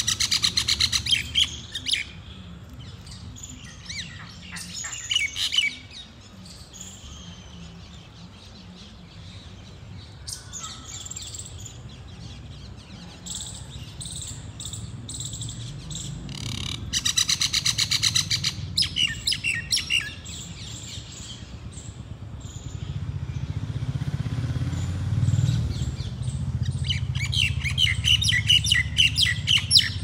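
Birds chirping in quick runs of repeated high notes, three bursts of them with scattered calls between, over a steady low rumble that grows louder in the last third.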